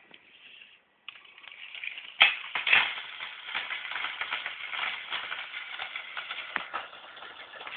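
Train clattering along its track, a dense run of small clicks and rattles with a sharp knock about two seconds in.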